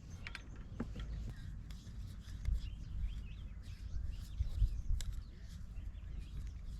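Small birds chirping in short twittering calls over a steady low rumble on the microphone, with a few faint clicks.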